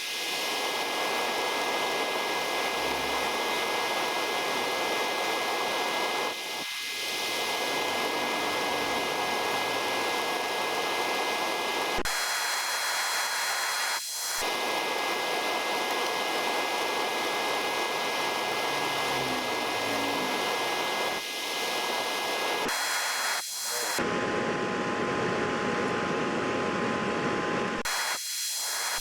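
Steady broad hiss with a faint high whistle, its character changing abruptly several times.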